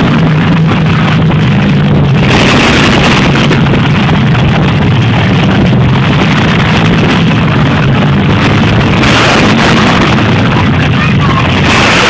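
Monster truck engine running loud and steady, with swells of louder noise about two seconds in, around nine seconds, and near the end.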